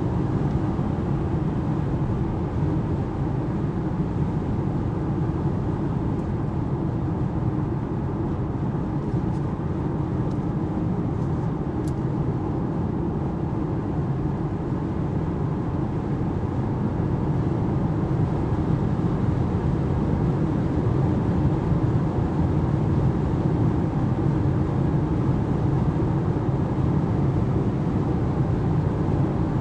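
Cabin noise inside an all-electric Alpine A390 GT cruising at 120 km/h on a motorway: a steady low rumble of tyre roar and wind, a little louder in the second half.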